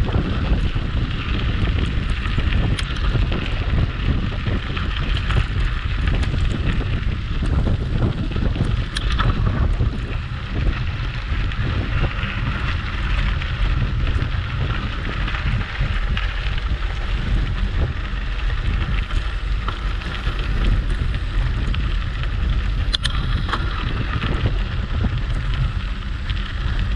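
Wind buffeting the microphone of a moving bicycle, over a steady hiss of tyres rolling on the trail, with a couple of sharp clicks.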